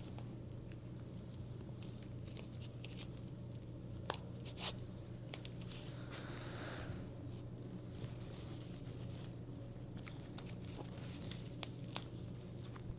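Bar tape being wrapped and pulled taut around bicycle drop handlebars: faint rustling and rubbing of the tape, with a few light clicks, over a steady low hum.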